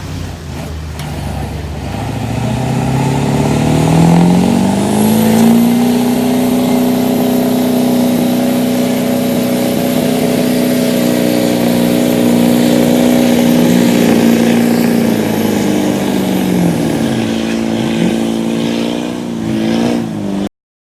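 Pull truck's engine winding up over the first few seconds, held at high revs under load for about ten seconds, then dropping off as the run ends, with a thin high whistle over the held part. The sound cuts off suddenly near the end.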